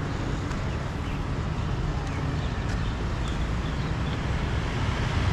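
Street traffic: a steady rumble of motor vehicles passing on a city road.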